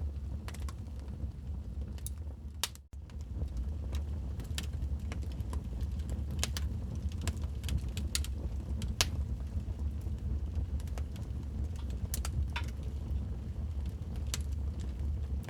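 Wood fire crackling in a fireplace: irregular sharp pops and snaps over a steady low rumble. The sound briefly drops out about three seconds in.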